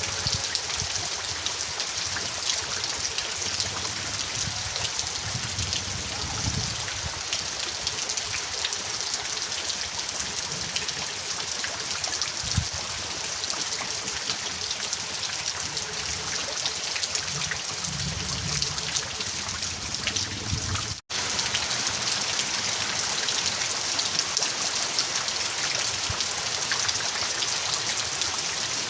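Steady, dense rain: an even hiss of raindrops falling on surfaces, with a brief dropout about two-thirds of the way through.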